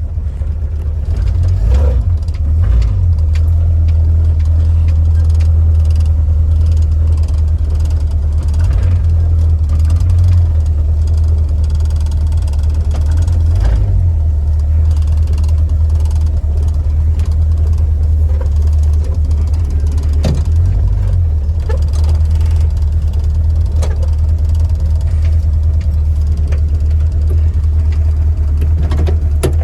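1968 Ford Torino GT's V8 engine running as the car is driven, a steady low rumble with small clicks and knocks over it.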